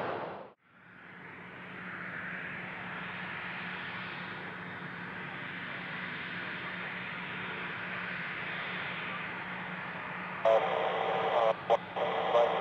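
Steady rushing jet-engine noise with a low hum, from business jets at an airport, following an abrupt cut near the start. Near the end a crackly air traffic control radio voice comes in over it.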